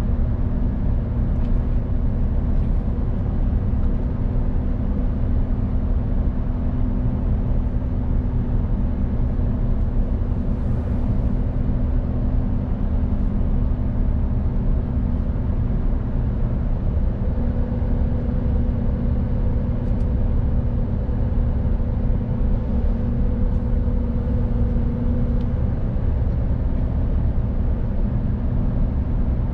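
Mercedes-Benz Actros truck's diesel engine running steadily on the move, a deep drone with tyre and road rumble underneath. Its note strengthens a little partway through.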